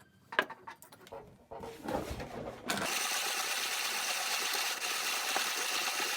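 A few clicks and knocks, then from about three seconds in the steady grinding of coffee beans being hand-cranked through a 1950s KyM (Kissing & Möllmann) manual conical burr grinder set to its finest setting, burrs just touching.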